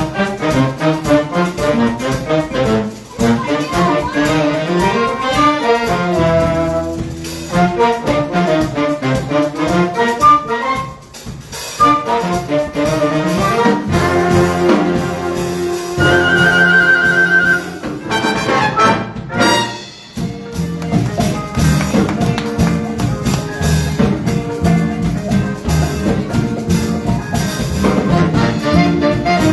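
High school jazz big band playing, with trumpets, trombones and saxophones over a rhythm section.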